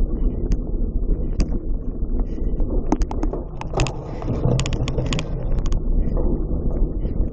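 Steady low rumble of wind on the microphone, with a cluster of sharp rattling clicks about three seconds in that lasts a couple of seconds.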